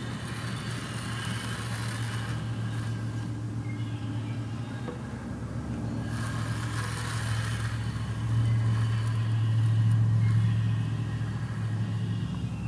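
A shop machine's electric motor running with a steady low hum that grows louder for a few seconds near the end, with two stretches of light scraping hiss over it.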